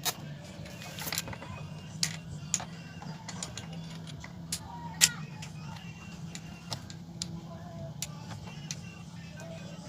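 Scattered sharp clicks and knocks of plastic fittings being handled and fitted onto a portable pressure washer's discharge outlet, about one every second, the loudest about five seconds in, over a steady low hum.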